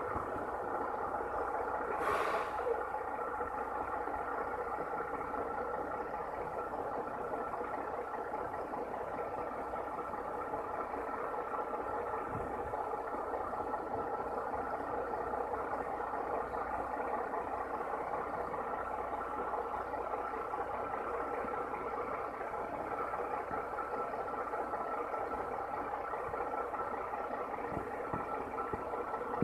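Steady running hum of a vehicle engine, unchanging throughout, with a brief sharper clack about two seconds in.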